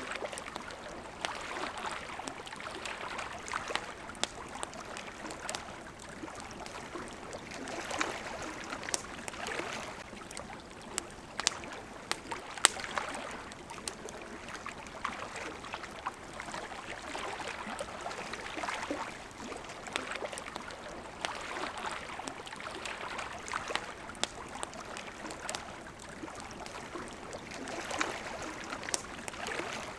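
Campfire crackling with frequent sharp pops, over water washing against a shore in gentle swells every few seconds.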